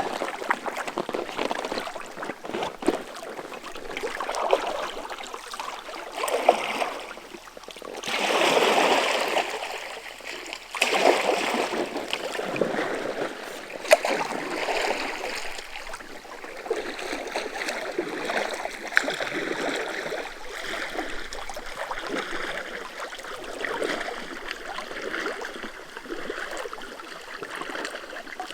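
Kayak paddle strokes: the blades dipping into and splashing through the water, a surge of water sound every couple of seconds.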